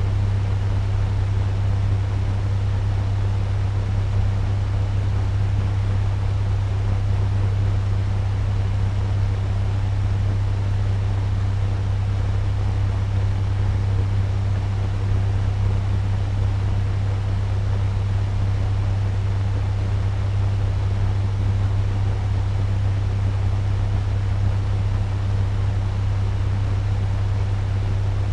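Turbo fan running at medium speed: a steady rush of air over a low hum.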